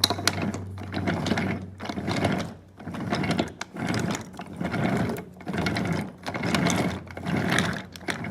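A toy train running along its track, its small geared motor and wheels whirring in repeated surges about once a second.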